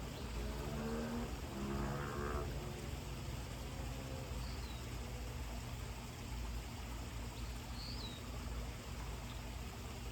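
A cow mooing: two long, steady calls in the first two seconds or so. Two short high bird chirps come later, over a steady low outdoor background.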